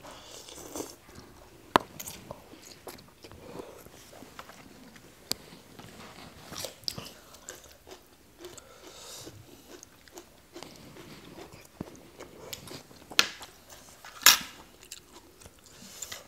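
Close-miked eating: noodle salad slurped and chewed, with wet mouth clicks and a few sharp crunches, the two loudest near the end.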